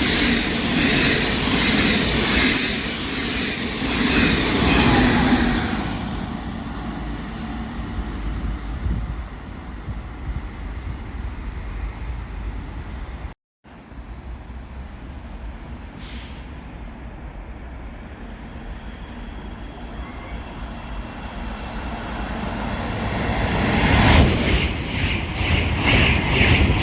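A train running through the station on steel wheels and rails, loud at first and fading after about six seconds to a low rumble. The sound drops out briefly about halfway, then a train grows loud again near the end with a rhythmic clatter of wheels over the track.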